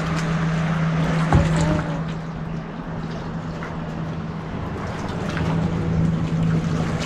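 Small gasoline engine of a Mokai motorized kayak running steadily: a constant hum, louder at first, easing off in the middle and swelling again near the end, over the rush of water along the hull.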